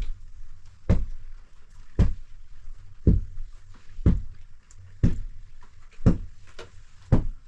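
A steady rhythm of heavy, dull thumps, about one a second, with a few fainter knocks in between.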